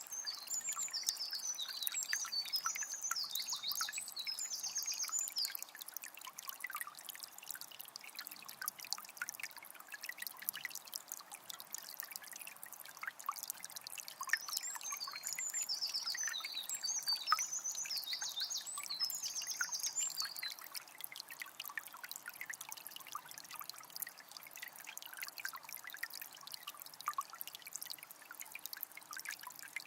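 Water of a small spring trickling and splashing steadily. A songbird sings two bouts of quick, high trilled phrases over it, one near the start and one about halfway through.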